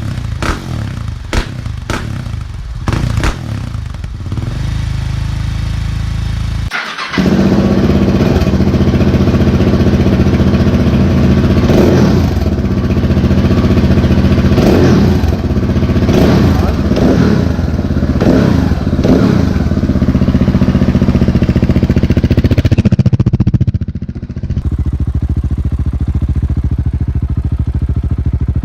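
Husqvarna 701 Supermoto's single-cylinder engine through an aftermarket exhaust, revved repeatedly in quick blips with the pitch climbing and falling, then settling back to a steady idle near the end. Before the revving there are a few clicks and knocks over a lower steady engine sound.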